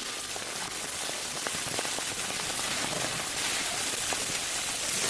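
Chicken frying in hot oil in a kazan: a steady sizzle with many small crackling pops, a little louder near the end.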